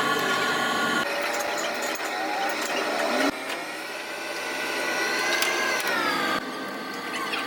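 Electric power tool or machine motor running with a steady whine. Its sound changes abruptly a few times, and its pitch rises and falls back once near the end.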